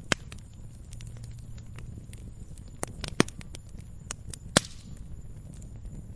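Campfire crackling: a steady low rumble of burning wood with scattered small snaps and three louder pops, one right at the start and two past the middle.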